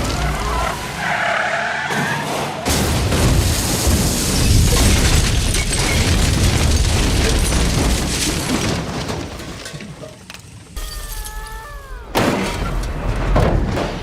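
Car crash sounds: loud crashing and shattering with deep booms, and sharp impacts near the end, mixed with music at the start.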